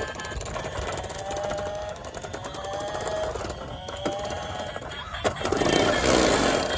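A small motor running with a fast, rattling buzz, with faint rising whines partway through. Near the end it grows louder and noisier.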